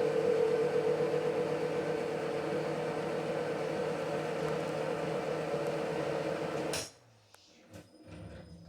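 Ceiling fan running with a steady hum and a pronounced mid-pitched tone, the abnormal noise it is being reported for. The sound cuts off suddenly about seven seconds in, leaving a few faint knocks.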